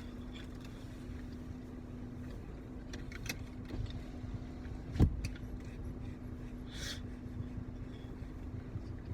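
Steady low background hum and rumble, with one sharp thump about five seconds in, a few light clicks shortly before it and a brief rustle near the end.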